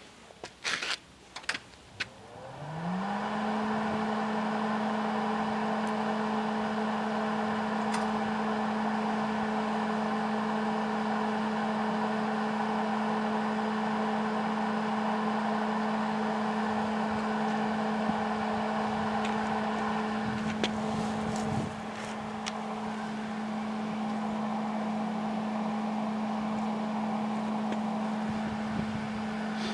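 Small engine-driven welder starting after a few knocks: its engine revs up quickly, then runs at a steady governed speed with an even drone.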